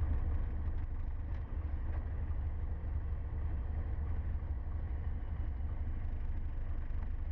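Cessna 150's four-cylinder Continental O-200 engine and propeller running steadily at low taxi power, heard from inside the cockpit as a low drone.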